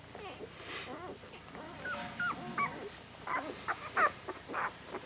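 Eight-day-old puppies squealing and whimpering: a run of short, high-pitched cries that bend in pitch, coming thick and fast from about two seconds in. These are the cries of newborn pups, one of them set apart from the mother and crawling back to her.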